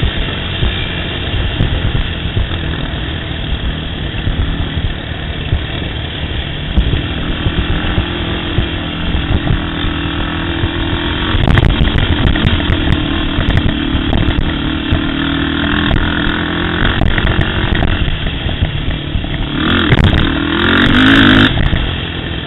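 ATV engine running under way over rough trail, with scattered knocks and rattles from the ground. It revs up briefly near the end.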